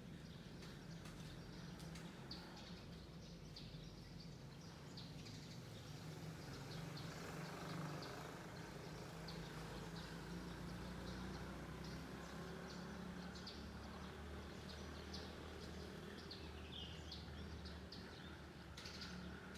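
Small songbirds chirping in short, high notes, repeated irregularly throughout, over a low steady background hum.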